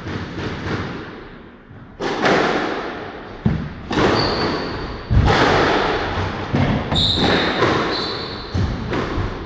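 Squash rally: a series of sharp hits of the ball off racquets and the court walls, roughly every one to two seconds, each ringing out in the enclosed court.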